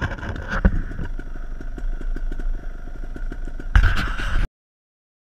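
Dirt bike engine ticking over at idle with a steady pulsing rumble. A brief louder burst comes near the end, then the sound cuts off abruptly.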